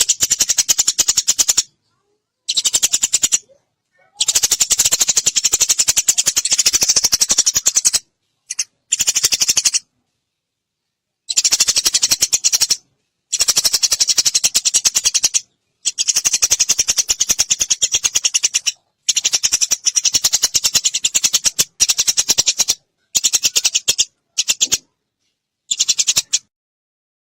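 Eurasian tree sparrow chirping in fast, chattering runs, about ten bursts of one to four seconds each with short silent gaps between them.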